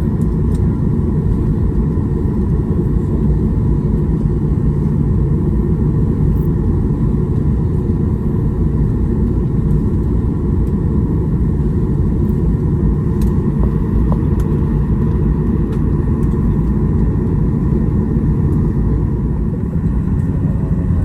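Jet airliner cabin noise after landing: a steady low rumble with a faint steady whine above it.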